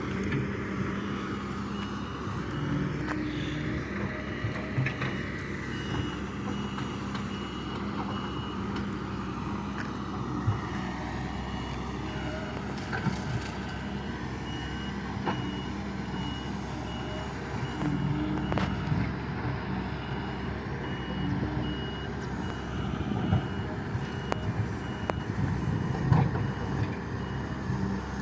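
Doosan DX140 excavator's diesel engine running steadily, louder in places, with a few sharp knocks. A high-pitched alarm beeps over and over from about two seconds in.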